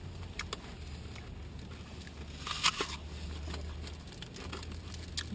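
Biting into a crisp Cosmic Crisp apple, with one loud crunch about two and a half seconds in and smaller crunching clicks of chewing around it.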